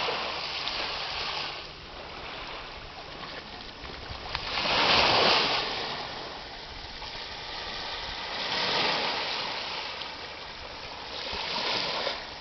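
Sea waves washing up on a beach, swelling and falling away four times, the loudest surge about five seconds in.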